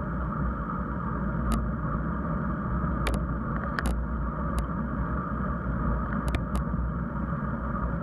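Steady low rumble of riding a bicycle, with road and wind noise on the microphone, and a few sharp clicks or rattles scattered through it.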